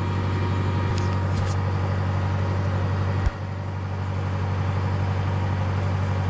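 Oliver tractor engine running steadily under load. About three seconds in there is a single sharp knock, and the engine sound drops briefly, then builds back up.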